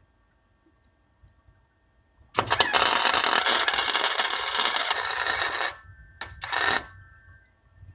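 Welder arc running on steel exhaust tubing: one weld of about three seconds, a brief stop, then a short second weld of under a second.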